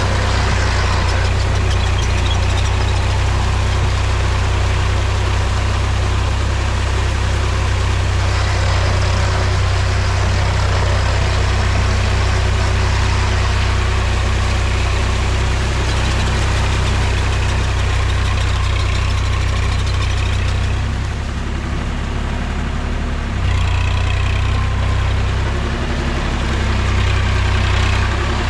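Mahindra tractor's diesel engine running steadily, with a rattly mechanical noise over its low drone. Its note drops and quietens briefly about three quarters of the way through, then comes back up.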